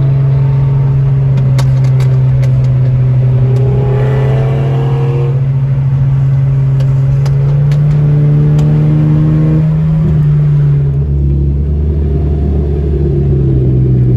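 Car engine under hard acceleration, its pitch rising and then dropping back at gear changes about five and ten seconds in, over a steady loud drone.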